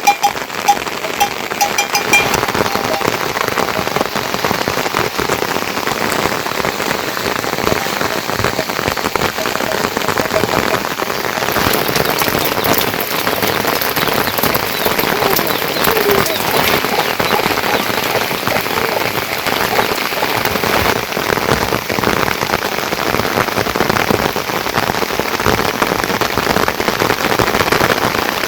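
Steady heavy rain, a dense rush of drops striking a surface, with a few short tonal notes in the first two seconds.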